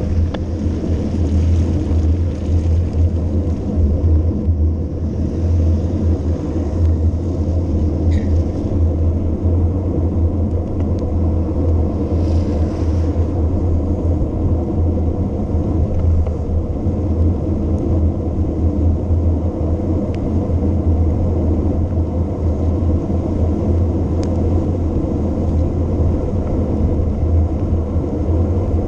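Wind buffeting the camera microphone during a fast mountain-bike descent: a steady, loud, deep rumble.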